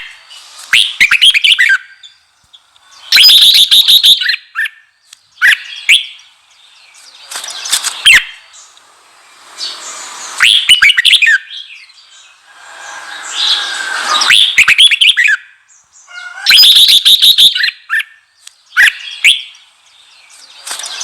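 Red-whiskered bulbul singing loud, intense song phrases that repeat every two to three seconds. A couple of the phrases are harsher and rasping.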